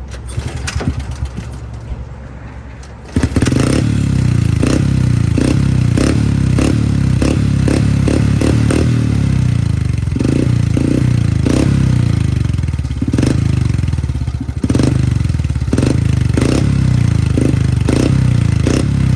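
Pit bike engine starting about three seconds in, then running loudly with repeated short blips of the throttle, having just been topped up with oil after running dry.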